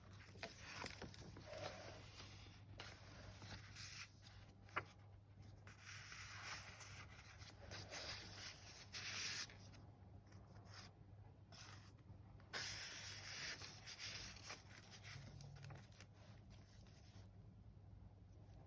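Paper pages of a handmade junk journal being turned and handled: faint rustling and rubbing in bursts of a second or two, with one sharp tick about five seconds in.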